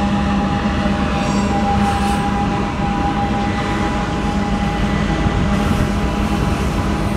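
Union Pacific double-stack intermodal train rolling past: container well cars rumbling steadily on the rails, with a steady high-pitched wheel squeal. The deep rumble of the diesel locomotive fades about a second in as it moves away.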